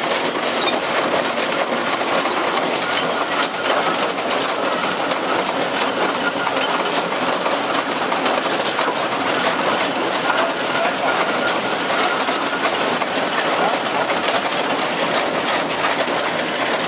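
1915 Case 65 hp steam traction engine running as it travels, a steady, dense mechanical noise with a fast clatter.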